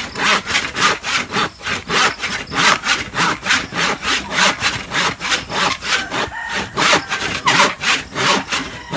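Handsaw cutting through a wooden board with quick, even back-and-forth strokes, about three a second.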